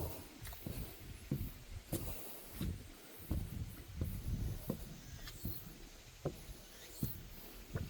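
Footsteps on a wooden deck walkway, irregular thuds about one or two a second.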